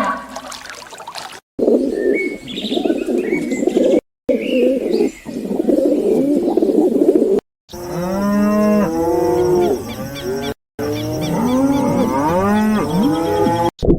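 Farm animals calling in short clips joined by brief silent cuts, including cattle mooing. Small bird chirps sound in the first part, and the second half is a run of short rising-and-falling calls, many overlapping.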